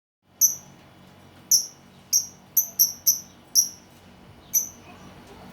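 Lovebird calling: eight short, high-pitched chirps spaced about half a second to a second apart, irregular in rhythm.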